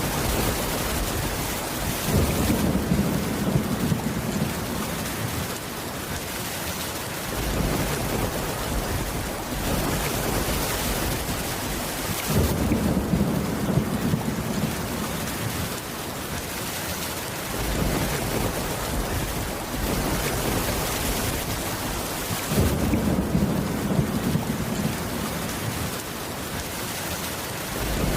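Steady heavy rain with low thunder rumbles that swell up about every ten seconds, three times.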